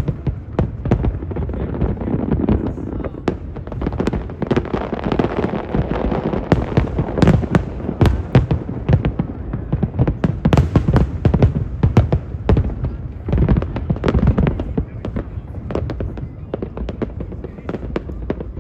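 Large aerial fireworks display: a dense, unbroken run of bangs and crackling bursts, several a second, over deep booms.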